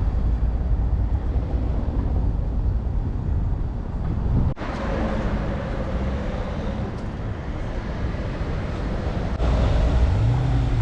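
Tram running with a steady low rumble, briefly cut off about four and a half seconds in. A low tone rises near the end.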